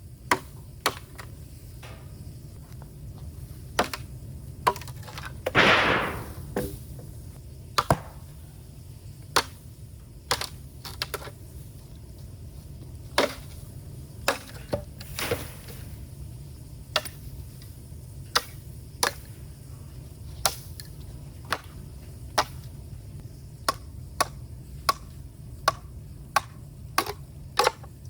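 Burning bamboo crackling in an open fire: irregular sharp pops and cracks, roughly one or two a second and of uneven strength, over a steady low rumble. A louder hissing burst comes about six seconds in.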